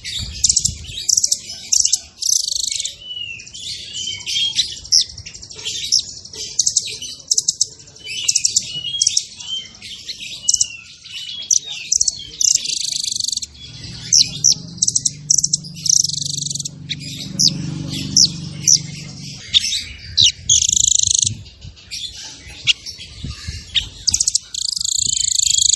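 Songbird singing a fast, dense run of quick high chirps and short trills with hardly a pause, the rapid 'speed rapat' style of masteran song used to train cage birds. A low murmur sits underneath for several seconds in the middle.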